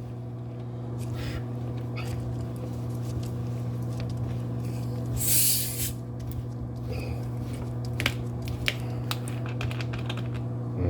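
Cream soda being opened: a fizzing hiss of about a second, roughly halfway through, followed by a few sharp clicks, over a steady low hum.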